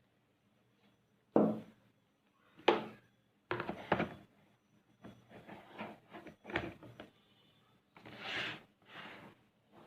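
An electric kettle and its power base being handled: several sharp knocks and clicks of hard plastic, then rubbing and scraping near the end.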